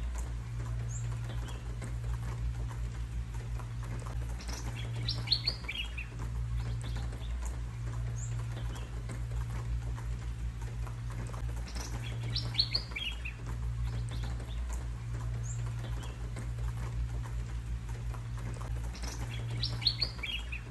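Songbird chirping in short, quick phrases that come back about every seven seconds, over a steady low rumble.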